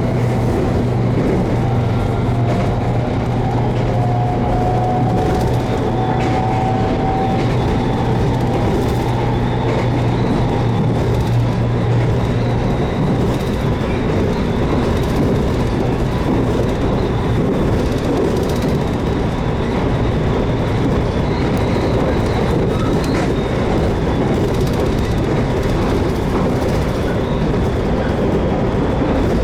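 JR Kyushu 813 series electric train running on the line, heard from on board: a steady rumble of wheels and running gear, with a whine that rises gently in pitch over the first several seconds and then fades, and a low hum that drops away about halfway through.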